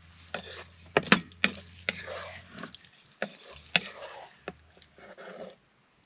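A utensil scraping and knocking against a frying pan as a pork and broccoli stir-fry in sauce is stirred and scooped, a dozen or so irregular sharp clacks. The sound cuts off abruptly shortly before the end.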